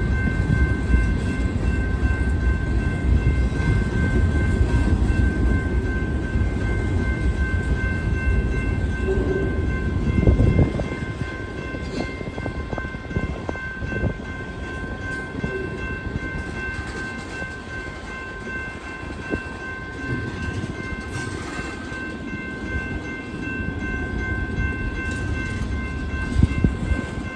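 Freight train cars rolling past, with a steady low rumble and wheel clicks over the rail joints. A brief loud clank about ten seconds in, after which the rumble is somewhat quieter.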